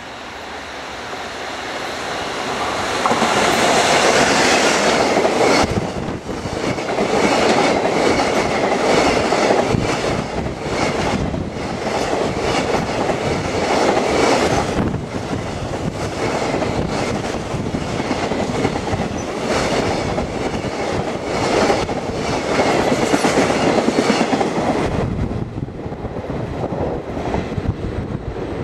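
ED76 electric locomotive passing close, followed by a long string of container wagons running by with a steady clickety-clack of wheels over rail joints. The noise builds over the first few seconds as the locomotive arrives and eases near the end as the last wagons pass.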